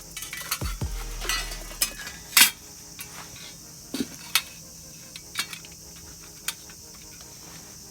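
Scattered light metallic clinks and clicks of hand tools and small engine parts being handled, the loudest about two and a half seconds in.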